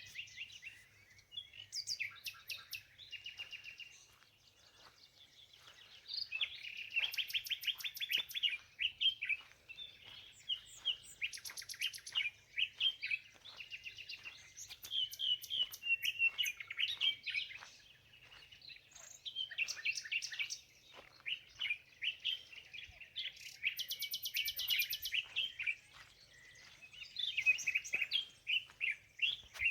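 Songbirds singing and chirping, with bursts of rapid trills every few seconds.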